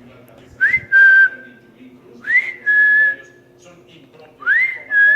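A person whistling to call a dog: three two-part whistles about two seconds apart, each a quick upward slide followed by a held, slightly lower note.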